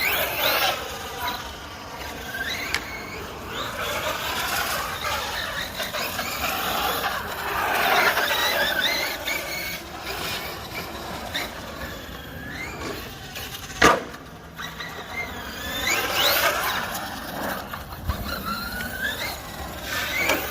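Reeper 1/7 scale RC monster truck's electric motor and drivetrain whining, the pitch rising and falling again and again as the throttle is worked. A single sharp knock about fourteen seconds in.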